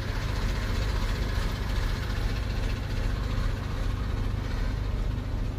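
Truck engine running as the truck pulls forward onto a car ferry: a steady low drone.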